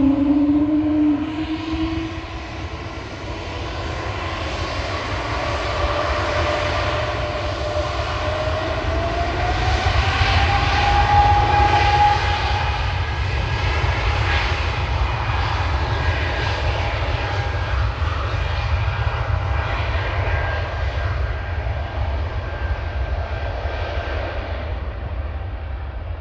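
Airbus A220's Pratt & Whitney PW1500G geared turbofan engines running, with a steady low rumble under an engine whine. The whine rises in pitch over the first ten seconds or so, then holds steady.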